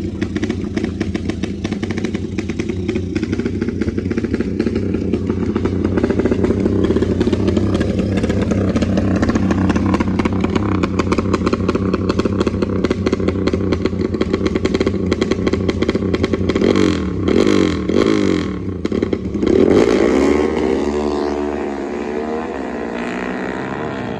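Dirt bike engines running at high revs, with quick rises and falls in pitch about two-thirds of the way through and several bikes' engines rising and falling together near the end.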